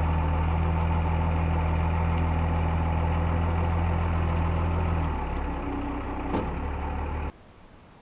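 A vehicle engine running steadily at low speed. About five seconds in its tone drops lower and softer, and a little after seven seconds it cuts off abruptly.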